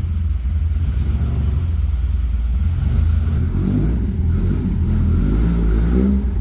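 Volvo 744 GLT's 16-valve four-cylinder engine running steadily on a test run after a clutch replacement.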